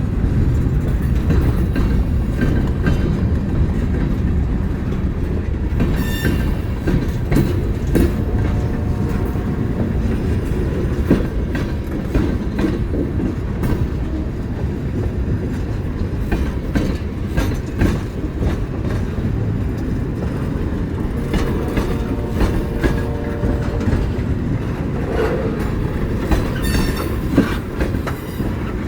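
Train rolling past, a steady rumble with wheels clicking over rail joints. Brief wheel squeals come about six seconds in and again over the last several seconds.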